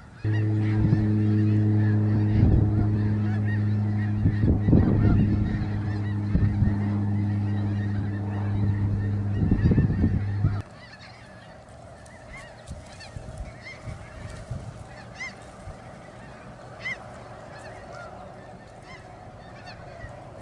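A flock of snow geese calling, many short high-pitched honks overlapping. For the first half a loud steady low hum lies over the calls, then cuts off suddenly about halfway through.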